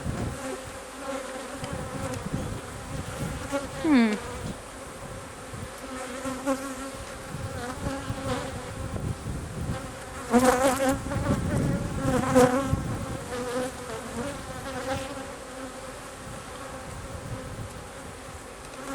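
Honey bees buzzing around an opened hive, a steady hum with louder swells as bees come close, about four seconds in and again around ten to thirteen seconds.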